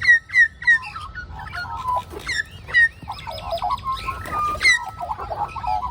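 Several Australian magpies calling at once: a quick series of short, sharp calls with some wavering warbling mixed in.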